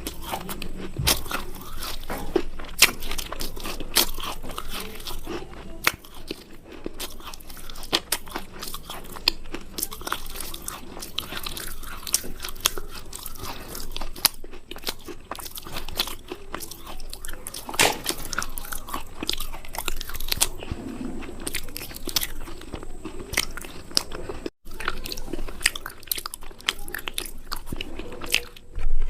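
Close-miked biting and chewing of something crunchy: a dense, continuous run of crisp crunches.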